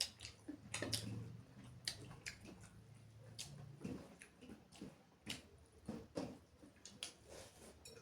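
Chewing and lip smacking while eating chicken curry and rice: a run of soft, irregular wet clicks and smacks.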